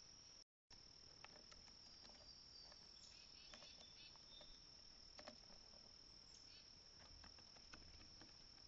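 Faint, steady high-pitched insect trill with no breaks, scattered with small clicks and taps and a few brief chirps around the middle. The sound drops out completely for a moment about half a second in.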